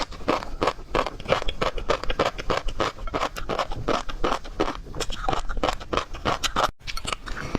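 Close-miked eating sounds of seafood being chewed: a dense run of short crunchy and wet mouth clicks, with a brief dropout near the end.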